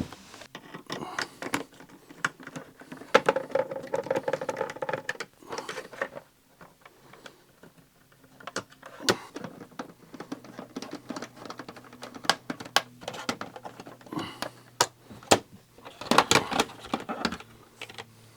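Irregular clicks, taps and scraping as parts of a car seat are handled and worked loose by hand, with rustling in a few stretches.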